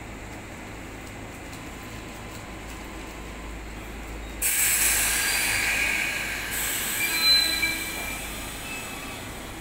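185 series electric train at a platform: a steady low hum, then about four seconds in a sudden loud hiss of compressed air lasting about two seconds, followed by a couple of seconds of high squealing tones as the train starts off.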